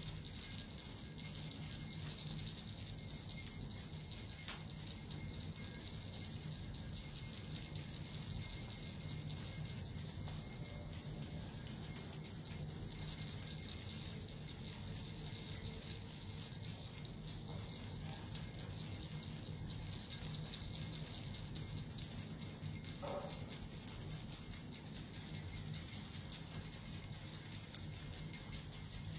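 Small metal jingle bells (suzu) shaken continuously in a dense, steady jingle, over a low steady hum.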